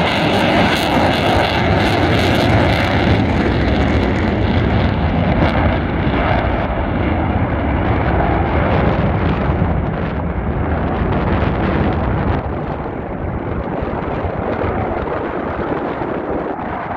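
Jet roar of two F-35A Lightning II fighters' Pratt & Whitney F135 engines climbing away after takeoff. The high hiss fades within the first few seconds, leaving a low rumble that slowly grows quieter.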